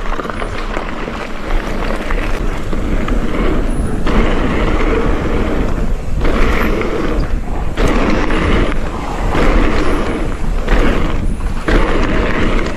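Mountain bike riding fast down a trail: wind rushing over the camera microphone with tyre and trail noise, easing briefly every second or two in the second half.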